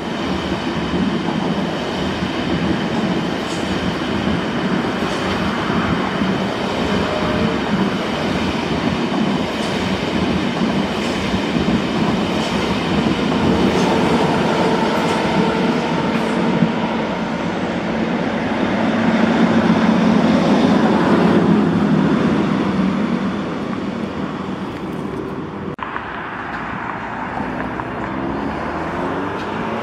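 Trains rolling past close below: a long white ICE-type passenger train's wheels running on the rails with clattering over the joints, then a freight train hauled by a red electric locomotive passing. The rolling noise swells for a few seconds about two-thirds of the way through.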